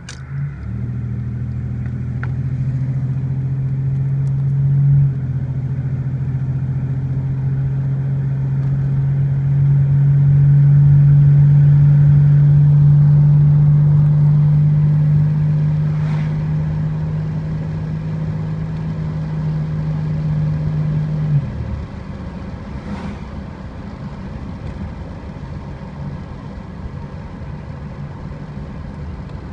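The 1987 Buick Grand National's turbocharged 3.8-litre V6 is running under way with a steady, deep drone. The drone steps up slightly about five seconds in and swells midway, then drops away abruptly about 21 seconds in, leaving a quieter steady rumble of driving.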